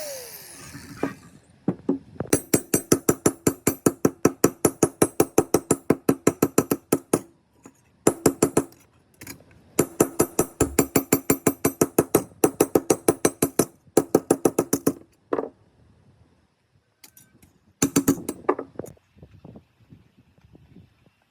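Rapid, evenly spaced hammer taps on a metal part, about six a second, each blow ringing briefly, in several runs of a few seconds with short pauses between, then a few last single strikes and a short burst near the end.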